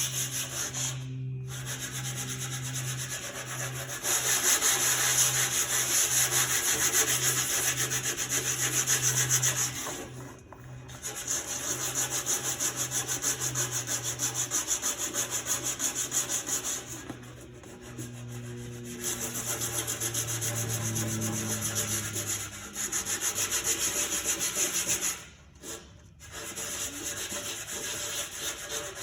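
Sandpaper scuffing over the old, rusty paint of a 1971 International Cub Cadet's sheet-metal body, in long spells broken by a few brief pauses.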